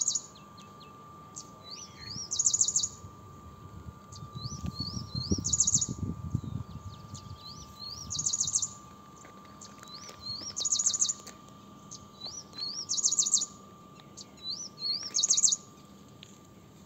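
A songbird singing the same short phrase over and over, about every two seconds: a few rising whistled slurs followed by a quick run of high notes. A low rumble comes and goes between about four and seven seconds in.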